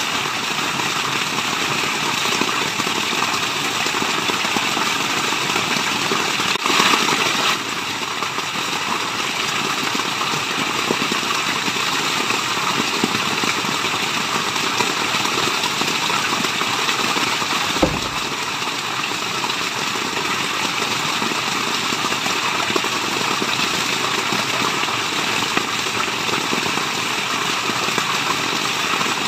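Steady rushing water, an even wash of noise without a pitch. It swells briefly about seven seconds in, and there is a single low thump just past halfway.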